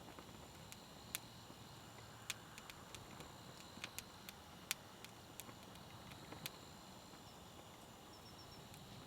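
Wood campfire crackling quietly: a dozen or so sharp, irregular pops and snaps over a low, even hiss.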